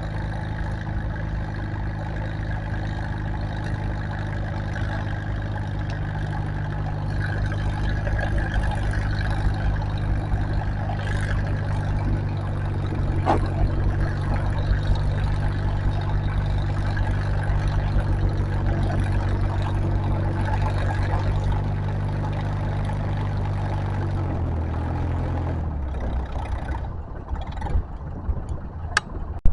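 Tractor engine running hard at a steady pitch under load, pulling the sled. About 24 seconds in it is throttled back, drops in pitch and dies away.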